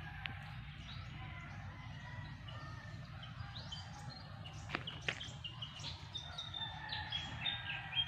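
Several small birds chirping and calling, with many short high chirps and brief whistled notes, over a steady low rumble. Two sharp clicks sound about halfway through.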